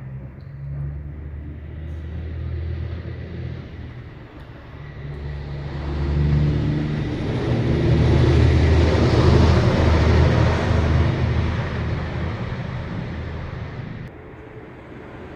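A motor vehicle passing on a road: a low engine hum with tyre noise that swells to its loudest about two-thirds of the way through, then fades away.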